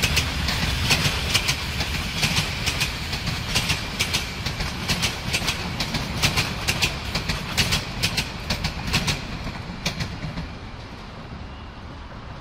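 Passenger train coaches rolling past, the wheels clicking over the rail joints in a steady clickety-clack over a low rumble. The clicking fades about ten seconds in as the end of the train draws away.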